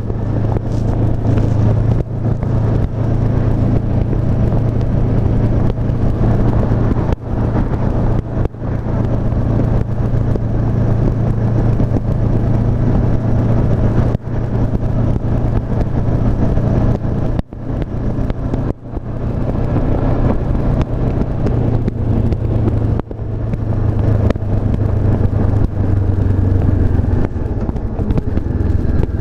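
Honda CB500F's 471 cc parallel-twin engine running steadily while the bike is ridden. Its sound dips briefly half a dozen times.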